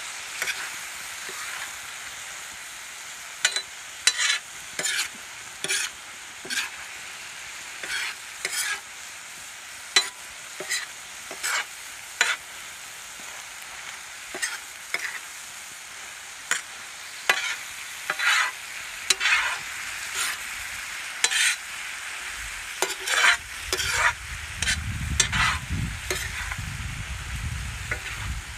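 Chicken masala sizzling on a large iron tawa while a steel ladle stirs and scrapes it, giving irregular sharp scrapes and clinks of metal on the pan over a steady frying hiss. A low rumble joins in over the last few seconds.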